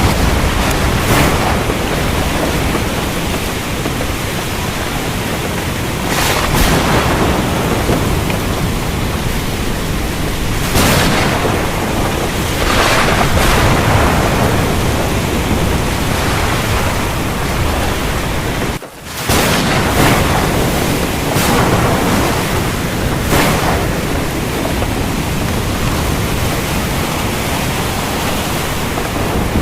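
Heavy rain falling in a steady, dense hiss, swelling louder every few seconds. The sound cuts out for a split second about two-thirds of the way through.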